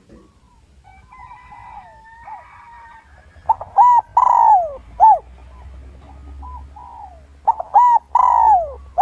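Spotted dove cooing: two phrases about four seconds apart, each a few short coos and then a longer coo that falls in pitch. It is the decoy male's call, used to draw wild males in to fight.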